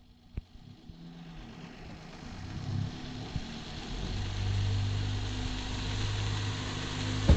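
Honda Civic engine running through a freshly straight-piped exhaust. It builds over the first few seconds and then holds a steady low drone.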